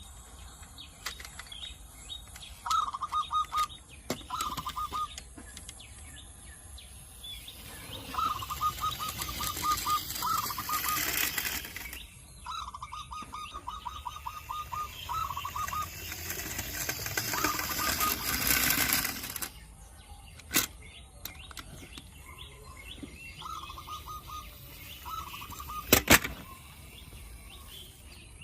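A bird calling in short bursts of rapid, evenly repeated chirps at one pitch, again and again, with two long stretches of rushing noise. A couple of sharp knocks come near the end.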